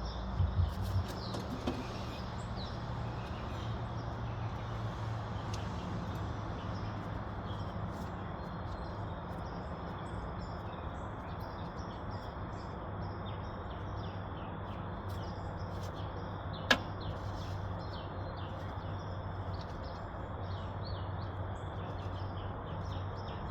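Ford 2600 tractor engine idling steadily on its newly fitted replacement carburetor, a low even hum. Birds chirp over it, and a single sharp knock comes about 17 seconds in.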